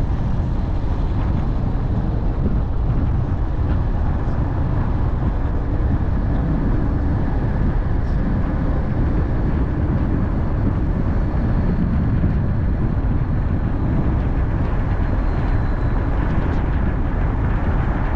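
Steady road noise of a car being driven: a constant low rumble of tyres and engine, with no change in pace.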